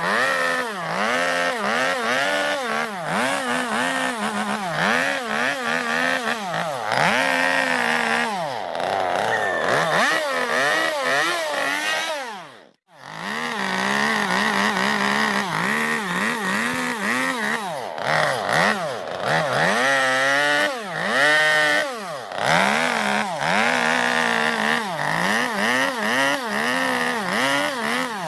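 Chainsaw carving into zelkova wood, its engine revving up and down over and over as the cut bites and eases. The sound drops out briefly about halfway through, then picks up again.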